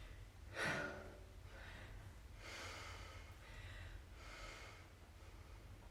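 A person breathing hard, catching their breath after a work interval, with several deep breaths in and out roughly a second apart.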